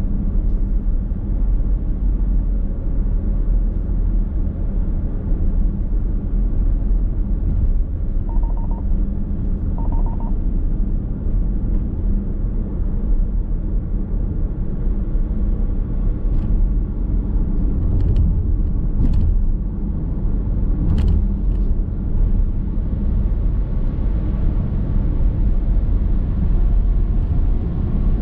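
Steady low rumble of road and tyre noise inside a moving car. Two short beeps sound close together about a third of the way in, and a few sharp ticks come about two-thirds through.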